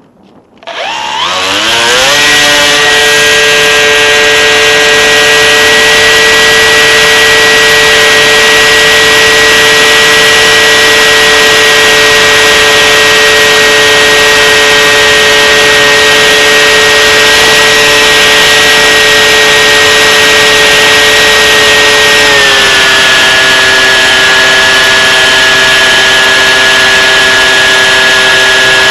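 Small electric motor and propeller of a radio-controlled aircraft spinning up from rest within about two seconds, then running loud at a steady high pitch. About 22 seconds in the pitch steps slightly lower and holds there.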